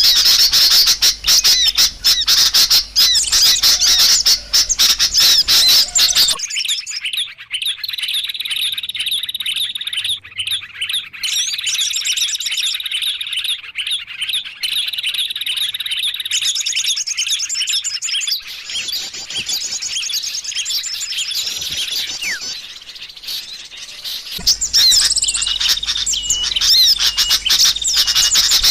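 Many small birds chirping and trilling in a dense, high-pitched chorus, the kind of recording played as a lure to draw small birds in. About six seconds in the sound changes abruptly to a thinner run of rapid repeated trills, then switches back to the fuller chorus near the end.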